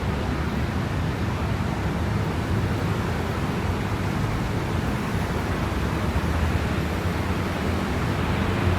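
Steady city street ambience: an even low rumble of traffic with a wash of noise over it, and no distinct events standing out.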